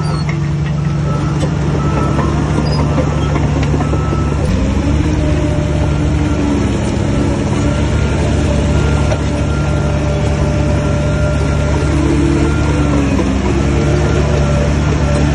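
Heavy diesel engine of a Shantui bulldozer running steadily under load. Its note dips briefly twice, with a thin whine above it.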